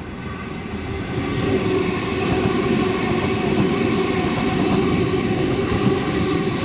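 Sydney Trains M set electric multiple unit passing through the platform, its noise growing louder over the first two seconds and then holding steady.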